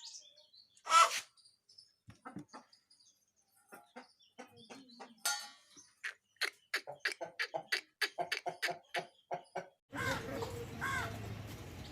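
A chicken gives one short loud call, then a run of quick clucks, about four a second. A steady background noise comes in near the end.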